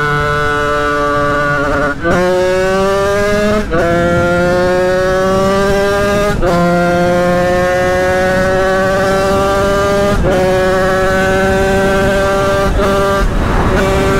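Sherco 50cc supermoto's two-stroke engine pulling hard under acceleration, its pitch climbing in each gear and dropping sharply at four quick upshifts, then running at a steady pitch near the end.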